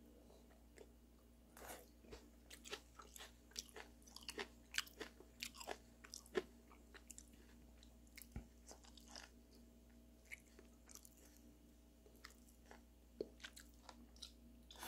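Faint chewing of steamed beef tripe: a run of small wet clicks and crunches, densest in the first ten seconds and sparser after.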